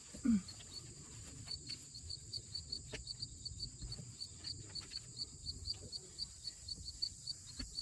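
Insects chirping: a steady high buzz with a regular chirp about three or four times a second. Just after the start a brief low voice sound, like a short grunt, stands out.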